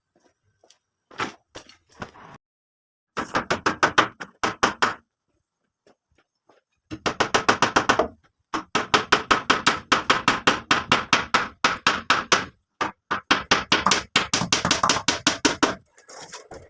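Rapid repeated strikes of a hand tool, about six a second, in several bursts separated by short pauses.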